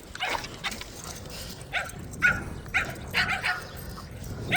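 A dog barking in short, separate barks, about six of them at uneven intervals.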